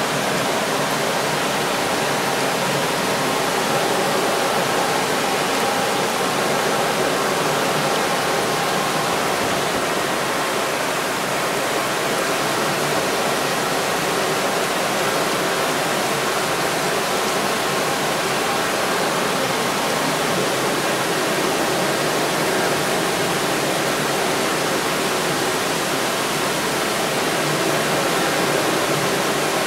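Rainstorm at sea: rain pouring down steadily, heard as a dense, even hiss.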